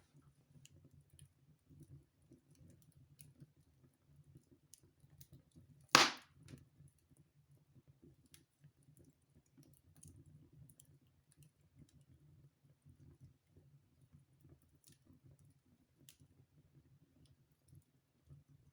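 Wood fire in a fireplace crackling with scattered small ticks and snaps, and one loud pop about six seconds in.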